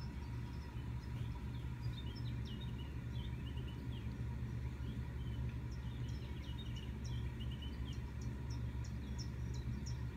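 Small birds chirping repeatedly in forest ambience, played through a laptop's speakers, over a steady low hum.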